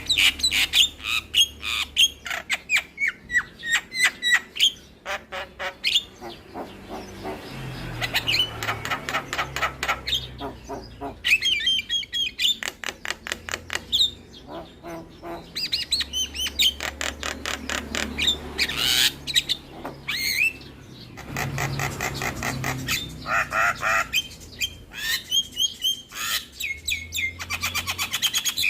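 Javan myna (jalak kebo) singing a long, varied song packed with imitated phrases: fast runs of clicking notes alternate with harsh chatter and short whistles, over a faint low hum.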